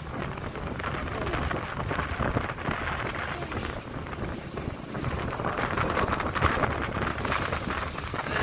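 Wind buffeting the microphone over the rush of water along a moving ship's hull, as a steady noise that swells and eases every few seconds.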